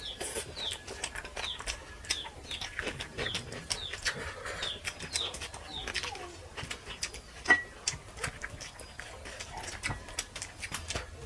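A bird calling nearby with a run of short, falling high notes about twice a second, over scattered wet clicks and smacks of people eating curry and rice by hand. A single sharper click stands out a little past halfway.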